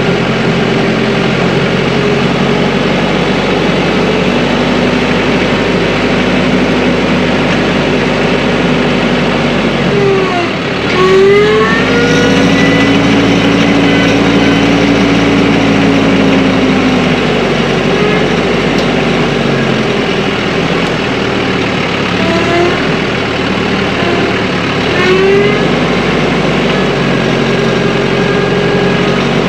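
TYM compact tractor's diesel engine running steadily, revving up and holding a higher note for a few seconds about a third of the way in, then revving up briefly again near three-quarters of the way through, as it works under load.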